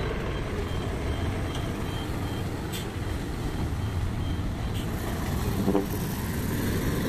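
Heavy truck engine running steadily under load, with a reversing beeper beeping about twice a second for the first two seconds or so.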